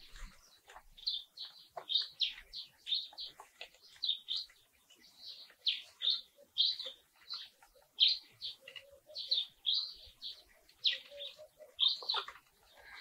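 Small birds chirping, short high calls repeating about twice a second.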